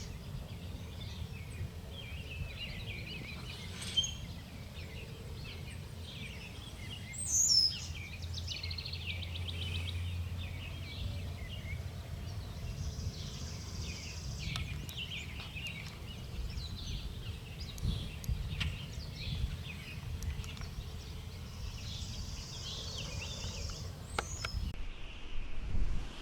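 Songbirds chirping and singing, many short calls, with one louder falling call about seven seconds in, over a steady low outdoor rumble.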